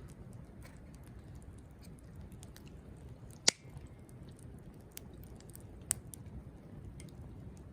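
Wood fire burning in a Coleman Fire Disk fire pit: a low steady rumble with scattered small crackles and two sharp pops, the louder one about three and a half seconds in, the other near six seconds.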